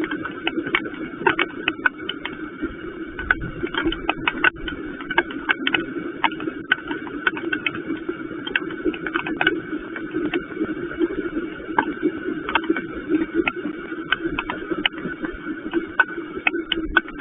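Rain drops ticking irregularly, a few a second, over a steady hum.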